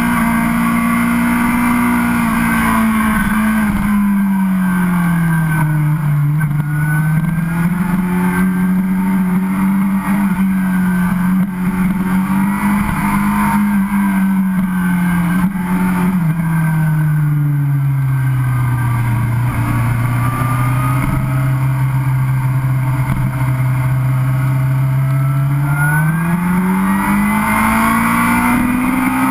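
Sportbike engine heard from onboard while riding, one continuous engine note that sinks and climbs slowly as the revs change. It drops to its lowest about two-thirds of the way through and climbs back up near the end.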